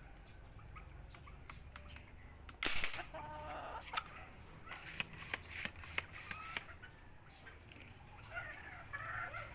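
Chickens clucking, broken about three seconds in by one sudden loud burst of noise and, a couple of seconds later, a quick run of sharp clicks.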